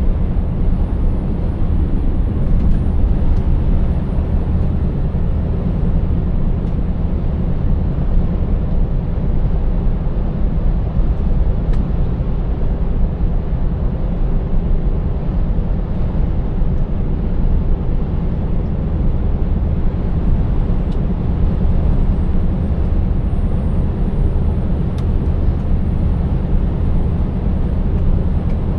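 Scania 590S truck's 16-litre V8 engine running at a steady cruise, a low drone mixed with tyre and road noise.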